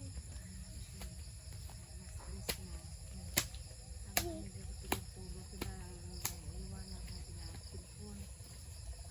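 Steady high-pitched drone of crickets or similar insects, with about six sharp clicks or snaps in the middle few seconds and faint distant voices.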